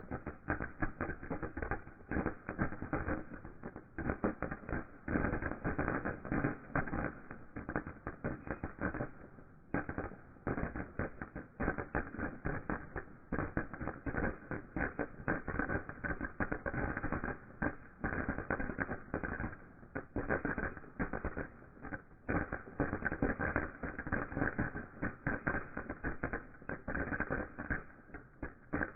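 Ground fountain firework crackling: a dense, continuous run of rapid pops and crackles, easing briefly twice.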